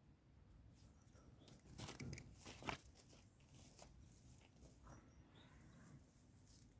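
Near silence with a few faint rustles and clicks, a small cluster of them about two seconds in, the sharpest near the three-second mark.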